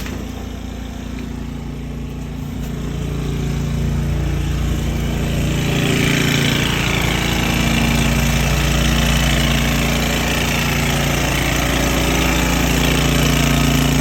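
Sewer water jetter running steadily, its engine-driven pump blasting high-pressure water into a sewer line packed with grease. It gets louder about four seconds in, and a hiss joins it about two seconds later.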